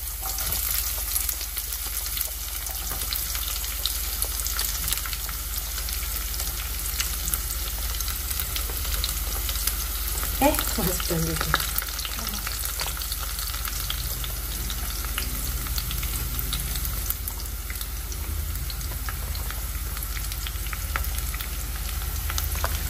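Sliced shallots and garlic sizzling in hot oil in a frying pan: a steady sizzle with fine crackles, and a brief squeak about halfway through.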